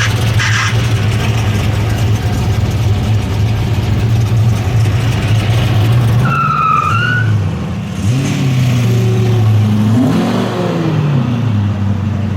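Muscle car V8 engines rumbling at low revs, with the pitch rising and falling in short revs in the second half. A brief high whistle-like tone sounds about six seconds in.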